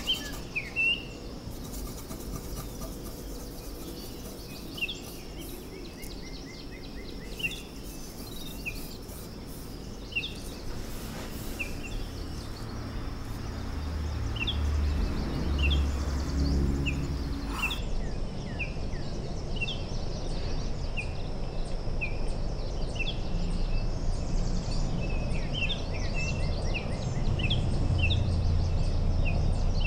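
Birds chirping: short high chirps and quick chirp trills repeating irregularly, over a low steady background rumble that grows louder in the second half.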